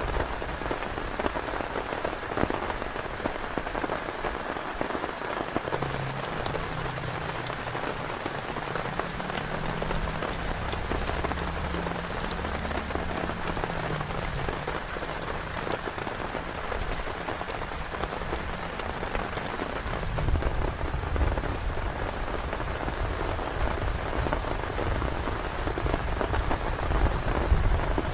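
Heavy rain drumming steadily on a tent, with a low rumble swelling in about two-thirds of the way through.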